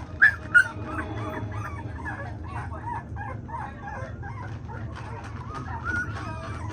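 A litter of three-week-old American Bully puppies whining and squeaking over one another, with two loud yelps just after the start.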